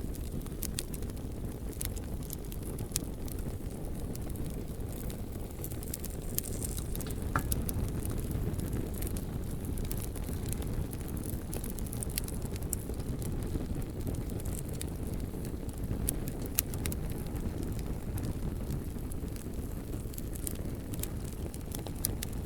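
Wood campfire burning with frequent sharp crackles and pops scattered irregularly over a steady low rumble.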